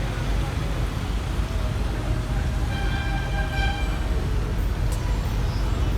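Passenger boat's engine running with a steady low rumble as the boat pulls away from the jetty. About three seconds in, a faint held tone sounds for about a second.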